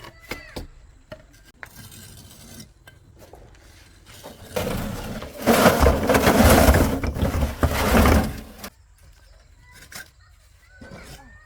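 Loud clattering and scraping of hard objects lasting about four seconds, starting about halfway in, with a few separate knocks around it.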